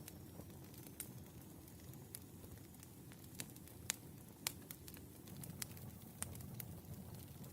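Firewood burning: a low steady rumble under irregular sharp pops and crackles, the loudest two coming about four seconds in.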